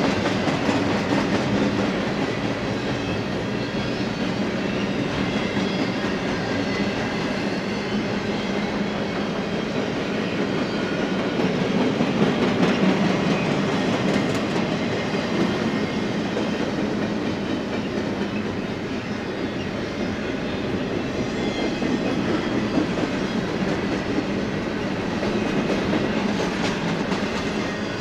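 Double-stack intermodal container train rolling steadily past: a continuous rumble and clatter of steel wheels on the rails from the loaded well cars.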